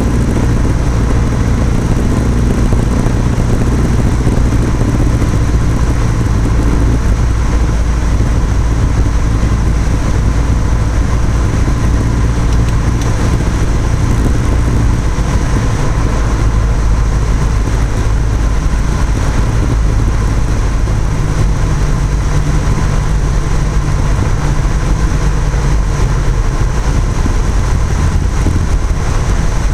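Cessna 172 piston engine and propeller running steadily in flight. The engine note shifts about halfway through, as with a throttle change.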